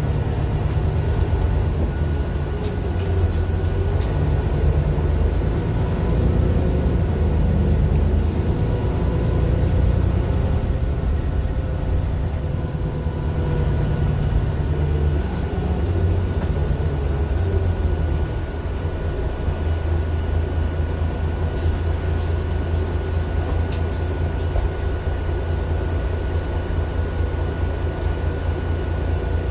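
Mercedes-Benz Citaro LE city bus's Daimler OM 457 hLA six-cylinder diesel running, heard from inside the bus, its low note shifting a couple of times. A thin steady whine sits above it.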